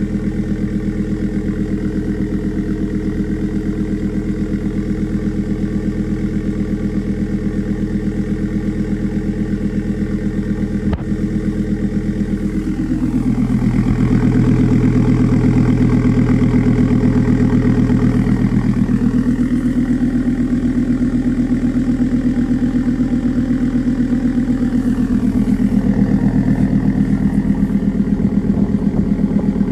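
2006 Volvo S80's 2.5-litre turbocharged inline-five idling after a cold start, heard through an exhaust with the muffler cut out and a straight pipe in its place. About halfway through, the idle note shifts and gets a little louder, then shifts again a few seconds later.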